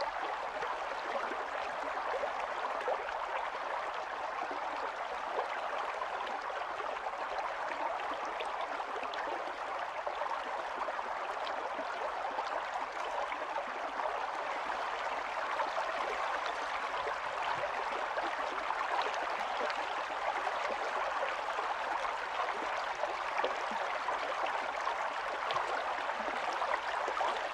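Stream running steadily over stones: continuous babbling and gurgling of flowing water.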